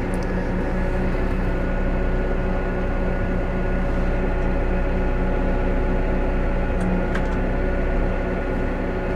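New Holland T5.120 tractor's four-cylinder diesel engine running steadily at a constant speed, a continuous even hum heard from inside the cab.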